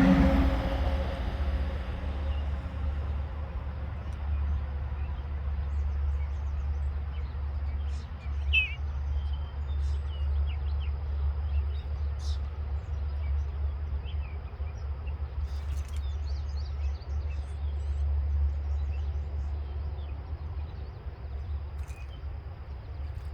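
Faint, scattered short bird chirps, with one clearer rising-and-falling call about eight seconds in, over a steady low rumble. A passing engine fades out at the start.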